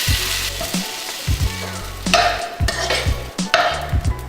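A hash brown sizzling in melted butter in a hot wok, a steady frying hiss.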